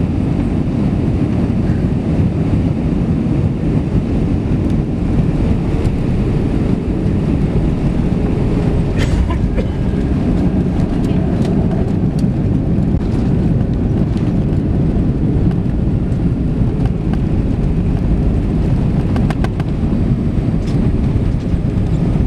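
Steady low rumble of engine and airflow noise in the cabin of an Airbus A320 airliner as it lands, with a few light clicks and rattles about nine seconds in and again near the end.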